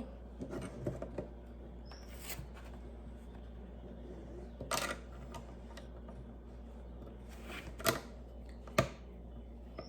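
Lego pieces being handled and snapped together: a handful of separate sharp clicks and small rattles, the two loudest near the end.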